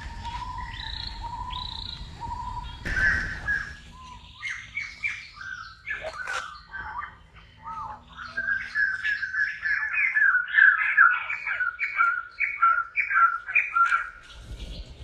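Birds calling in the trees: a repeated whistled note for the first few seconds, then runs of quick chirps, several a second, busiest in the second half.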